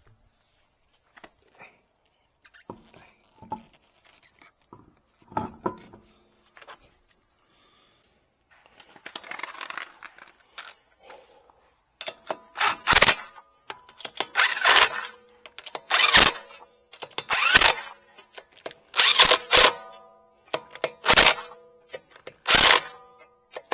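Hand tool working on metal: a few faint clicks and a short scrape, then about a dozen loud, evenly paced metal strokes, roughly one every second and a half, each leaving a brief ringing tone.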